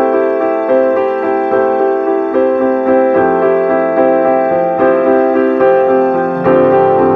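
Soft piano music: a gentle melody played in steady, evenly paced notes.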